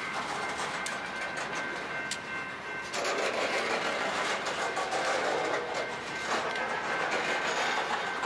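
Slow freight train rolling past, its hopper cars' wheels clicking on the rails, with a louder rumble and rattle of the cars from about three seconds in. A faint steady high tone sounds underneath.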